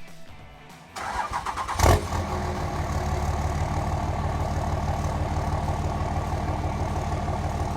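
An engine or motor starts about a second in, with a sharp knock just before two seconds, then runs steadily at idle.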